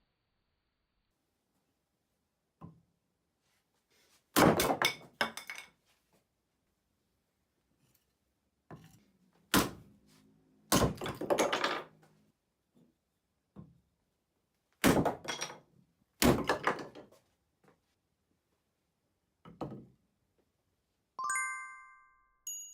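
A series of heavy thunks, five loud strikes with a few lighter ones between, like an axe biting into wood. Near the end there is a short, bright metallic ring.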